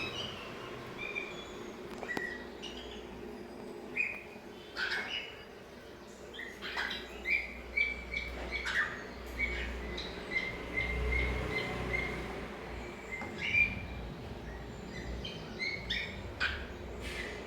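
Cockatiels chirping: a scatter of short calls, with a run of quick repeated chirps midway.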